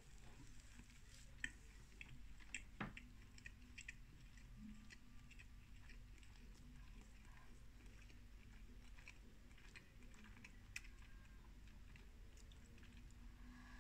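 Faint chewing of a mouthful of microwaved cheeseburger, with scattered small wet mouth clicks.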